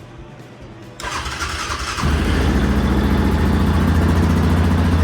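Yamaha Grizzly ATV being started: about a second of cranking, then the engine catches about two seconds in and settles into a steady run.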